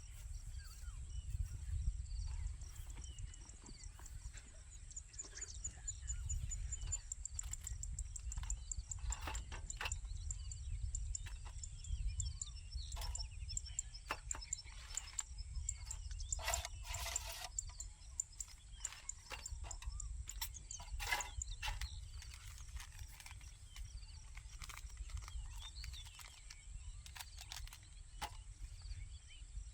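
Outdoor nature ambience: a constant low rumble, a steady high-pitched drone, and scattered short chirps and clicks, with a brief run of clicks just past the middle.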